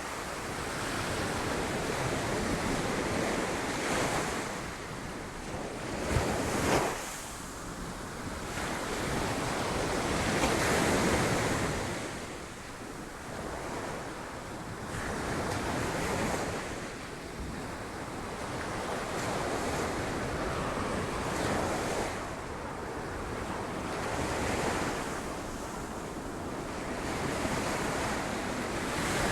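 Sea waves breaking against rocks, surging and ebbing every several seconds, with wind on the microphone. Two brief sharp peaks stand out about six to seven seconds in.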